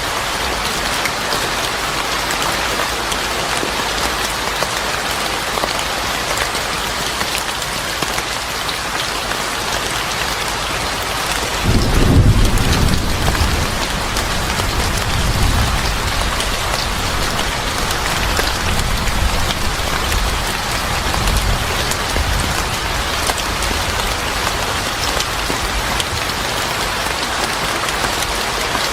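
Steady, heavy rain hissing and pattering. About halfway through, a low rumble of thunder rolls in, peaks and slowly tails off under the rain.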